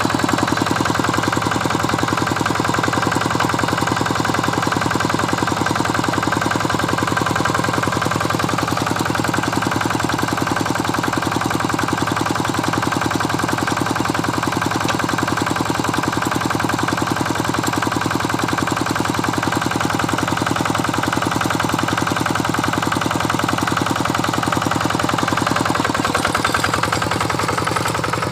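Single-cylinder diesel engine of a Quick Impala two-wheel hand tractor running steadily, with a fast, even firing beat.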